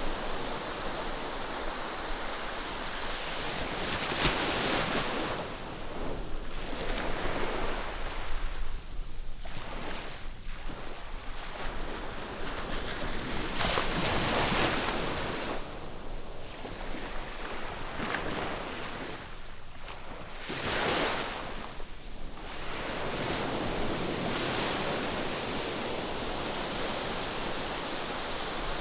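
Ocean surf breaking on a sandy beach: waves rising and falling in surges every few seconds, with some wind on the microphone.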